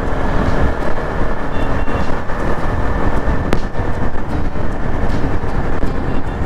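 Bajaj Pulsar NS200 single-cylinder motorcycle being ridden at steady highway speed, with its Akrapovic full-system exhaust running under heavy rushing road and wind noise.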